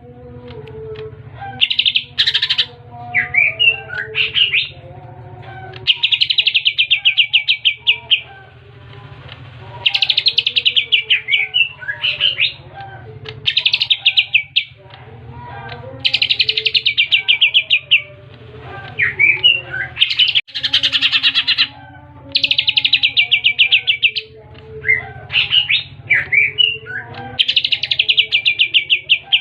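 Greater green leafbird (cucak hijau) singing: loud, fast trills of about two seconds, repeated every few seconds, with short chirps and sliding whistles in between.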